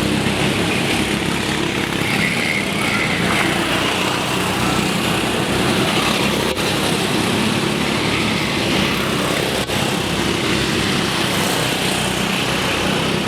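Racing kart engines running at speed on track, a steady, dense engine noise.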